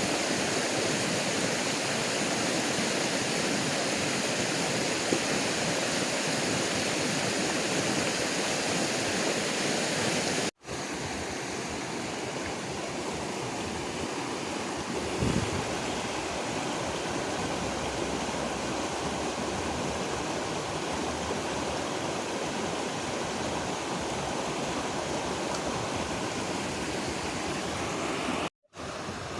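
Creek water rushing steadily over rocks, an even hiss that cuts out completely for an instant twice. A short low thump about halfway through.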